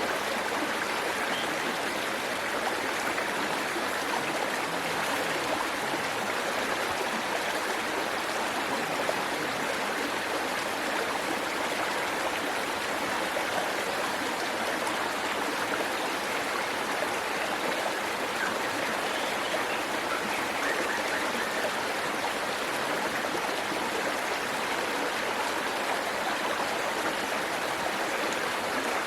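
Waterfall and stream water rushing steadily in an even, unbroken wash.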